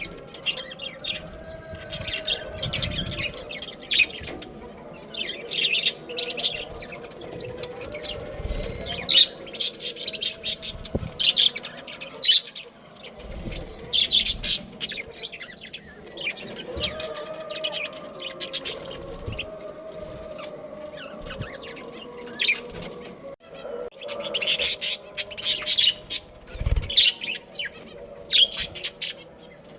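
Budgerigars chirping in repeated bursts of short, high calls, with a few low thumps.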